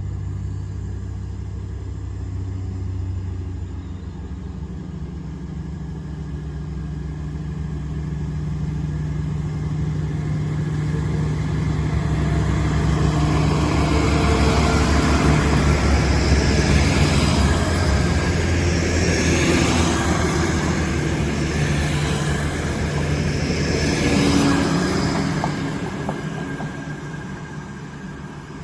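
Class 180 diesel multiple unit passing at speed. A low engine drone grows louder as the train approaches and is loudest about halfway through, with a further surge of wheel and rail noise a few seconds later, then fades away near the end.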